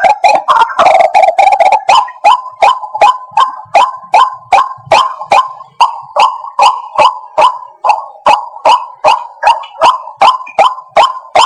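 White-breasted waterhen calling: a fast, continuous run of notes for about two seconds, then short, sharp notes repeated evenly at about three a second.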